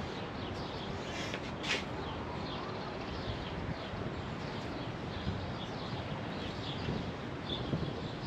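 Outdoor background: a steady hiss of ambient noise with small birds chirping repeatedly.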